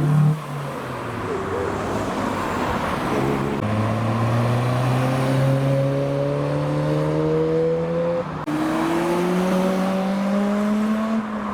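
Modified car engine pulling hard past the camera, its note climbing steadily, dropping abruptly on an upshift about eight seconds in, then climbing again.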